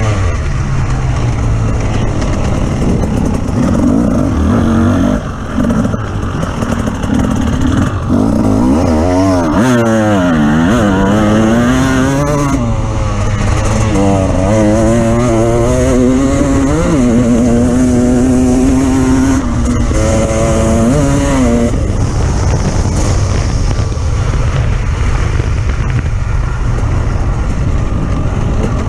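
Off-road vehicle engine running under load, its pitch rising and falling repeatedly through the middle as the throttle is worked, over a continuous rumble.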